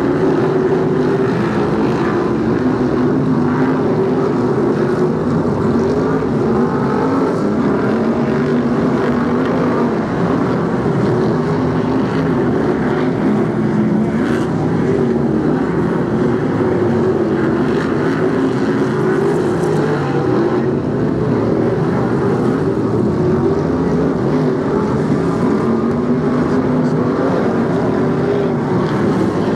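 A pack of BriSCA F1 stock cars racing, their V8 engines running hard together as the cars lap, with many engine pitches rising and falling over one another.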